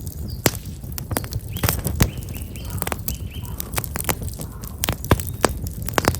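Campfire of black locust logs crackling, with frequent sharp pops and snaps. A small bird chirps a short run of repeated notes about two seconds in.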